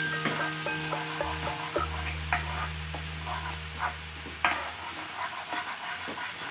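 Grated onion, chopped garlic and whole spices sizzling in hot oil and butter in a frying pan, stirred with a metal spatula, with scattered sharp crackles and pops.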